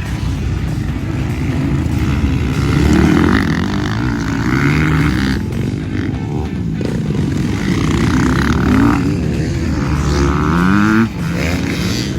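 Motocross dirt bike engine revving on the track, its pitch climbing and dropping again several times as the throttle is worked, with a sharp cut near the end.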